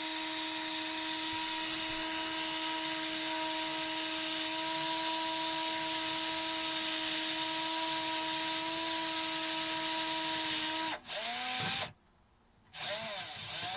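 Electric drill running steadily as it bores slowly down through the upper plywood layer of a camper floor. About eleven seconds in it stops and winds down, and near the end it gives one short second run as the bit breaks through.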